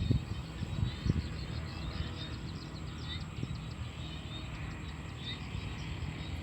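Evening chorus of small paddy frogs and birds: many short chirps and brief rising calls overlapping, over a low rumble from wind on the microphone.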